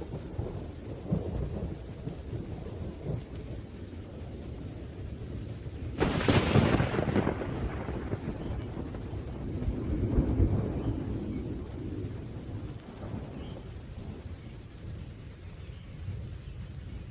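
Thunderstorm: low rolling thunder over rain. A sharper thunderclap breaks about six seconds in and rumbles away, and a further roll of thunder swells about ten seconds in.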